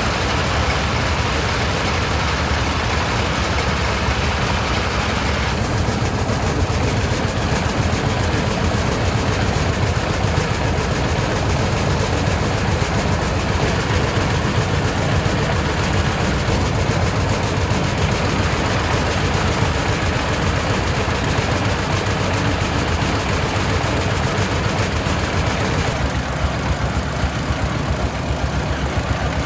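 A small engine running steadily, with a slight change in its sound about five seconds in and again near the end.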